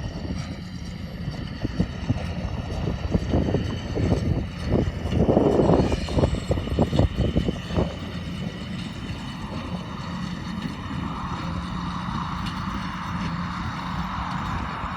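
A farm tractor pulling a hay baler, its engine running steadily with a continuous hum. Irregular rumbling bursts come and go in the first half.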